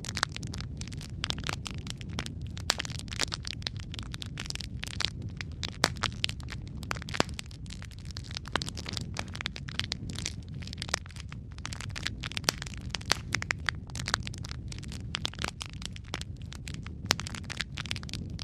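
Wood fire burning in a fireplace, with a steady low rumble under dense, irregular crackles and pops, several a second.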